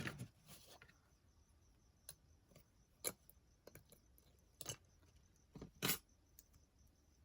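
A few light clicks and taps of small craft items being handled on a work table, about six in all, two of them close together near the end.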